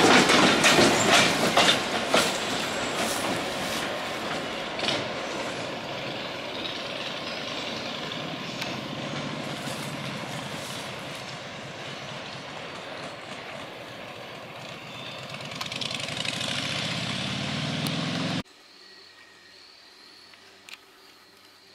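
Excursion train rolling past on the track, its wheels clicking over the rail joints, the sound slowly fading as it moves away and swelling briefly again near the end. About eighteen seconds in it cuts off abruptly to a faint background.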